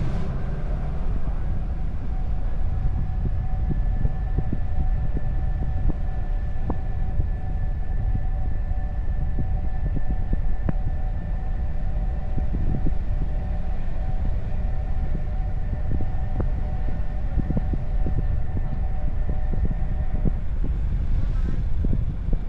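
Car driving along the road: a steady low rumble of engine, tyres and wind, with a faint steady whine that stops near the end.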